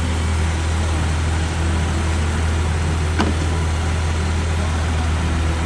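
Car engine idling steadily, with a single sharp click about three seconds in.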